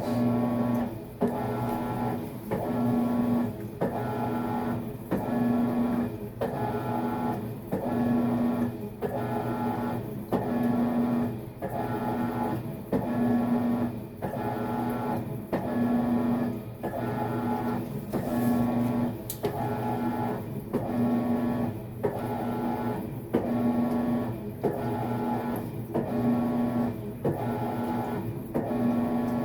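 Maytag MVWX655DW1 top-load washing machine agitating during a tub clean cycle. The drive motor hums through one stroke about every second, reversing with a short break between strokes.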